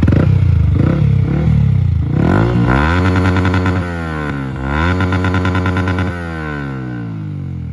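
Yamaha R15 V3's 155 cc single-cylinder engine revved through an Akrapovic full-system exhaust, loud. It gives a few quick blips, then climbs in pitch twice, and the revs fall away near the end.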